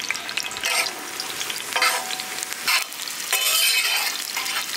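Sliced shallots frying in hot oil, sizzling steadily while being stirred, with louder surges of sizzle every second or so.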